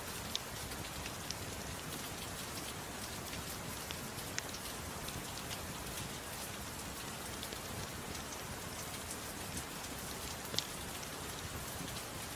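Steady soft rain mixed with a crackling fireplace, whose crackle gives a few sharp pops now and then.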